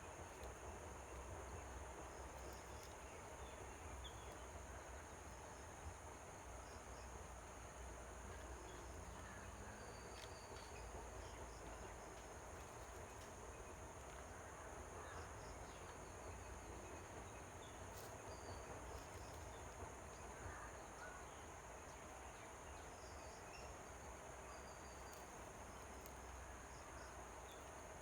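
Faint, steady high-pitched drone of insects such as crickets, with scattered faint bird chirps and a low rumble underneath.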